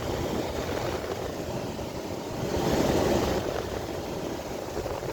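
A 12,000 BTU portable air conditioner running, a steady machine noise that swells louder for about a second near the middle.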